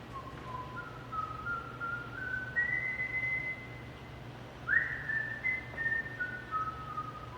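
A person whistling a short tune: held notes step upward, a quick upward swoop comes about halfway through, then the notes step back down. A steady low hum runs underneath.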